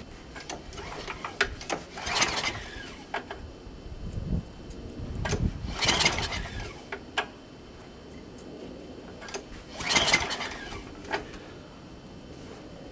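Small snowblower engine being pull-started three times, about four seconds apart; each pull is a brief whirring rush and the engine does not catch. Clicks and knocks from handling the machine come between the pulls.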